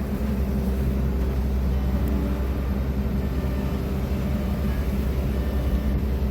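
Diesel engine of a road roller running steadily, a constant low drone.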